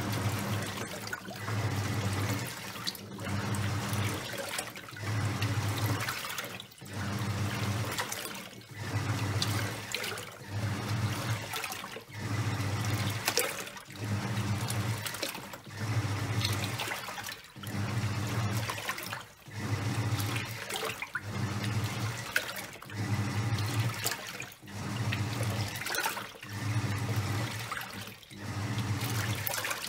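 Top-loading washing machine agitating a load of towels in water: the pulsator motor hums in short strokes about every second and a half, with pauses between, while the water sloshes and churns.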